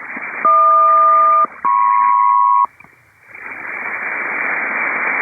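SELCAL selective-calling tones received over HF single-sideband radio: two pairs of steady tones, each held about a second with a short gap between them, sent by the ground station to call up an airliner's cockpit. After a brief drop-out near the middle comes a rising hiss of HF band static.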